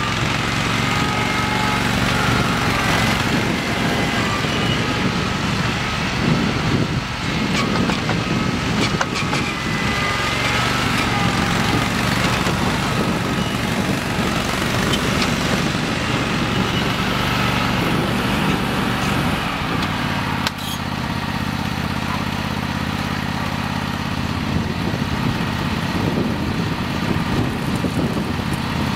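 Simplicity Legacy garden tractor running steadily, its engine note changing abruptly about twenty seconds in.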